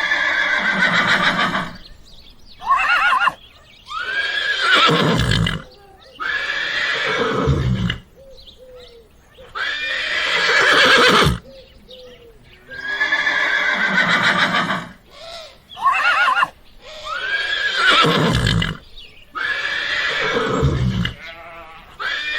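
Horse neighing again and again: about nine whinnies with falling pitch, mostly a second or two long with a few shorter ones, and brief pauses between them.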